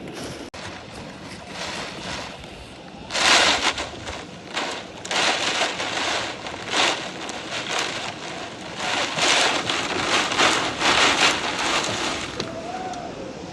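Storm wind and rain rushing and buffeting the microphone in irregular gusts. The loudest surge comes about three seconds in, with more between about nine and eleven seconds.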